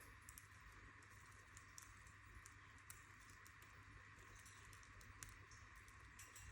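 Near silence: a steady low hum with faint, irregular small clicks and taps from budgies in their cage.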